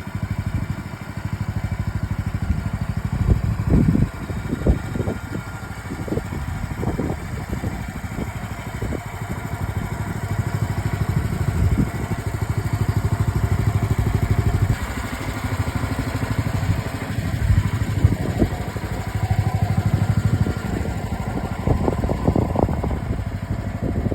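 Mini excavator's small engine running steadily, with repeated short knocks and clanks from the machine as it works.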